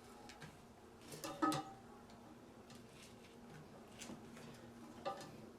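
Small clicks and taps of hands working the plastic fittings of a toilet tank while a nut is hand-tightened, with a louder cluster of clicks about a second and a half in.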